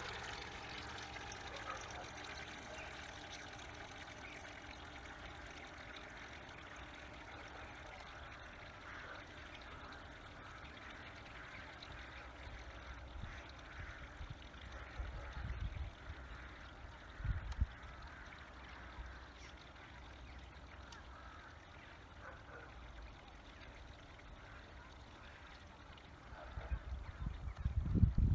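A Flytec 2011-5 RC bait boat running across a pond, its faint motor and wash fading as it moves away, over trickling water. Low gusts of wind hit the microphone a few times, strongest near the end.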